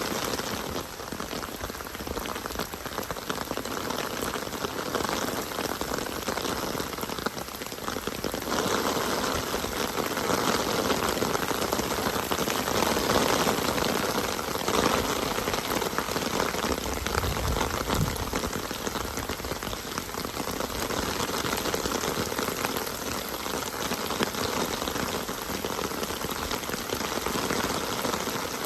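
Steady rain falling, growing somewhat heavier through the middle stretch before easing back.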